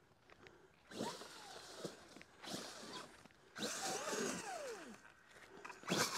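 Brushless electric motor of an Arrma Gorgon RC monster truck whining in short bursts of throttle, its pitch sweeping up and down with each burst. There are about four bursts, the longest from about three and a half to five seconds in.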